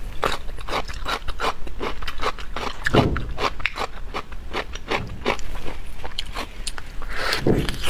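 Close-miked mouth sounds of eating glazed braised meat: wet chewing and smacking clicks, several a second. Disposable plastic gloves rub and crinkle as the meat is pulled apart.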